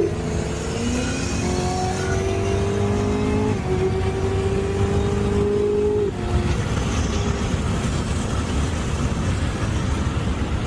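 Car engine accelerating, its note climbing steadily for about five seconds with a small step partway through, then giving way to a steady rush of road and wind noise.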